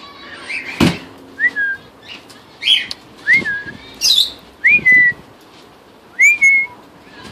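Quaker parrots calling: about five short whistled notes, each sliding up and then holding, mixed with a couple of harsh chirps. A single sharp knock sounds about a second in.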